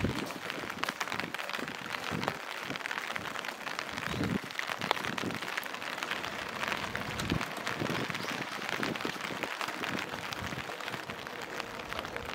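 Steady patter of rain, with many fine drop ticks over an even hiss. Soft low thuds come irregularly about once a second.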